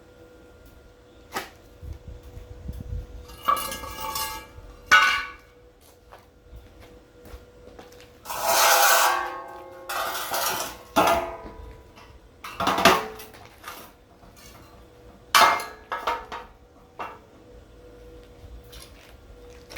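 Metal pieces clanking, knocking and scraping against each other at irregular intervals, some strikes ringing briefly, with two longer scrapes about eight and ten seconds in. This is sheet-metal parts of a wood-burning brazier being handled and fitted together.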